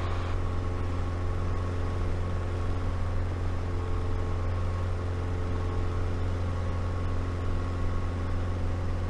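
Light aircraft's piston engine and propeller droning steadily, heard inside the cockpit as a strong, even low hum with faint steady tones above it.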